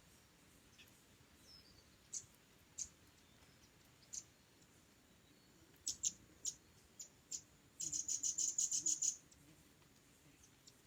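Small songbird calling with short, high single chirps a second or so apart, then a rapid run of about a dozen high notes lasting just over a second.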